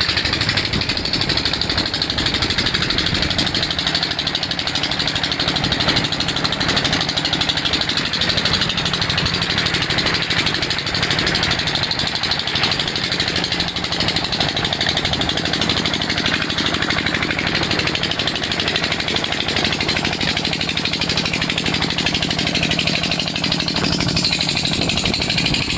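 Engine of a water-well boring machine running steadily under load with a fast, even chugging beat.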